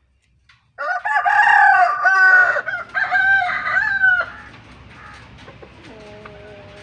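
A rooster crowing: one long, loud cock-a-doodle-doo of about three seconds, starting about a second in, followed by quieter background bird noise.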